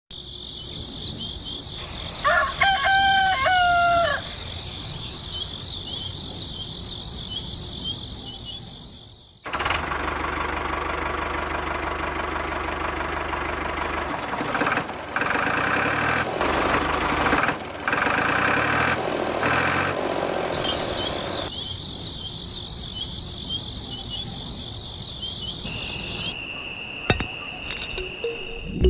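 A rooster crows once over a steady high insect chirring. About nine seconds in, this cuts abruptly to a louder, steady mechanical running sound with a fast beating pattern that lasts about twelve seconds, and then the insect chirring returns.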